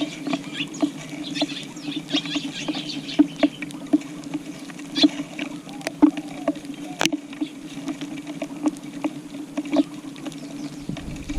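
Eurasian tree sparrows pecking grass seed off a tile floor: rapid, irregular beak taps on the tiles, with a sharper tap about seven seconds in. Short high chirps come in among the taps, mostly in the first few seconds.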